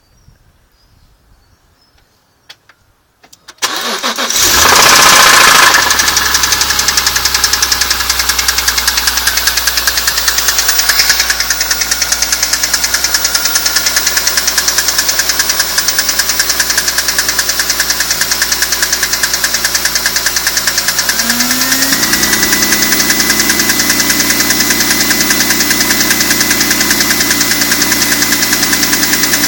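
BMW E46 M3's S54 straight-six engine starting after a couple of clicks, flaring briefly to high revs, then settling to a steady idle. About two-thirds of the way through, a rising whine comes in and holds steady over the idle.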